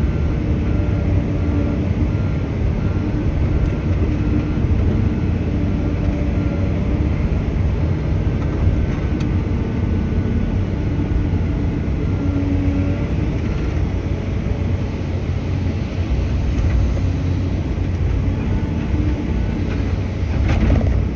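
Truck engine running, a steady low drone whose pitch shifts slightly now and then.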